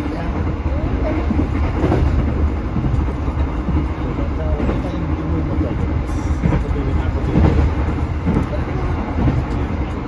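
Inside a moving passenger train: the steady rumble of the carriage and its wheels running on the rails.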